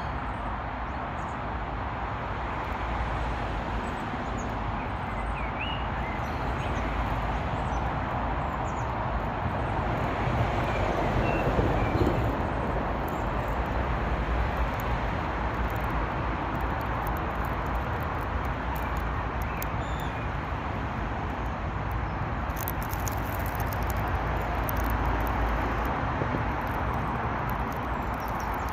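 Steady outdoor noise with a fluctuating low rumble, and a few faint bird chirps now and then.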